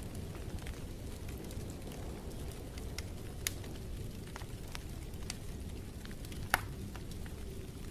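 Wood fire crackling in a fireplace: a steady low rumble of flames with scattered small pops, and one loud sharp pop about six and a half seconds in.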